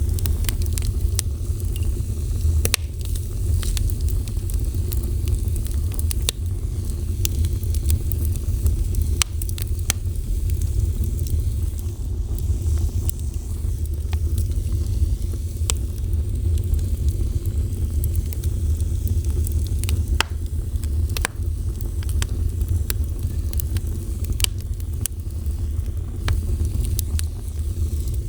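Fire burning: a steady low roar with sharp crackles and pops scattered irregularly over it.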